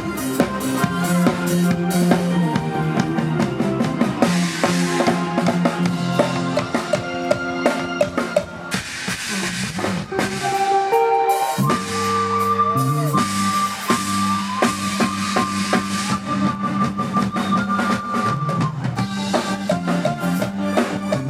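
Live band music with a steady beat on drum kit, bass drum and snare under keyboard lines, with no singing. About ten seconds in the bass and drums drop out briefly, then return under a long held high lead note.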